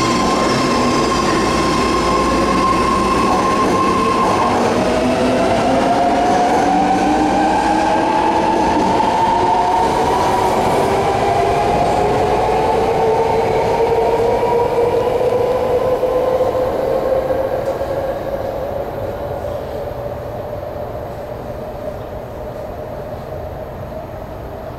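BART train pulling out, its electric propulsion whining: a steady whine cuts off about four seconds in, then several whines rise slowly in pitch as the train gathers speed, fading over the last several seconds.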